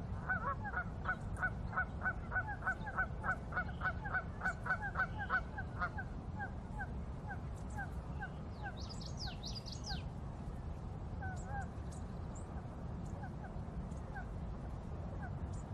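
Birds calling: a fast run of repeated calls, about three a second, for the first six seconds, then slower and more scattered. A brief cluster of higher chirps from another bird comes around nine seconds in, over a steady low background noise.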